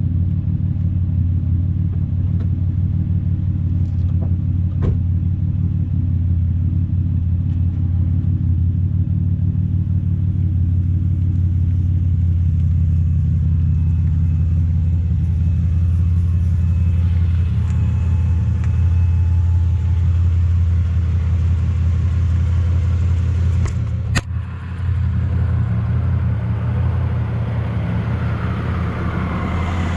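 2003 Chevrolet Impala's engine running at a low idle, heard close to the tailpipe through an exhaust whose holed pipe section has been replaced: a steady low hum. A single sharp knock comes about three quarters of the way through, with a brief drop in level.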